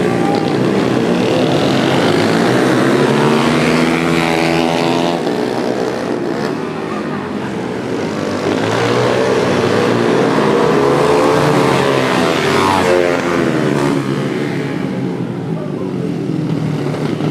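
Several pit bike engines revving hard, their pitch rising and falling and overlapping as the bikes race.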